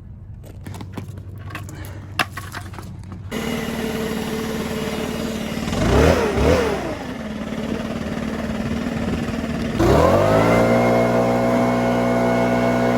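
Tractor engine idling, blipped twice in quick succession, then about ten seconds in its speed climbs and holds steady at a higher, louder pitch. A few faint clicks come before the engine is heard.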